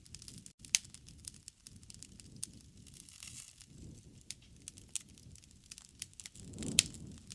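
Wood fire crackling: sharp pops and snaps every fraction of a second over a low rumble of flames. The rumble swells near the end, with one loud snap.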